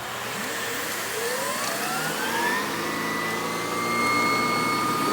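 Miele canister vacuum running with a Vacuflo T21 electric power head: the motor whine rises in pitch over about the first two and a half seconds as it spins up, then holds steady over the rushing airflow.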